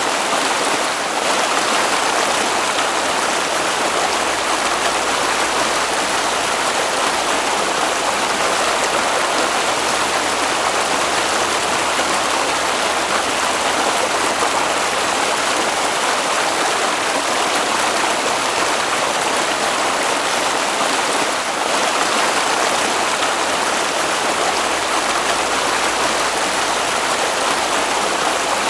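Water flowing in a stream, a steady, even rushing with no pauses or changes.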